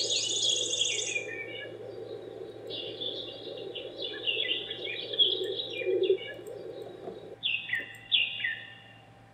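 Birds chirping in quick series of short, falling calls, with the last two bursts loudest about three-quarters of the way through before fading out.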